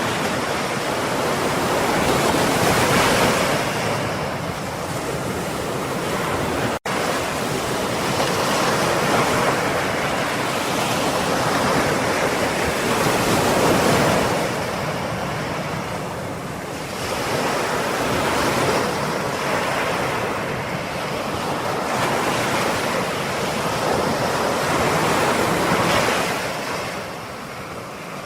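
Ocean surf: waves breaking and washing in, swelling and easing every few seconds, with a momentary cut-out about seven seconds in.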